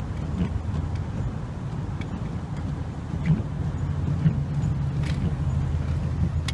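A four-wheel-drive vehicle running steadily: a low engine and road hum, with a few light clicks.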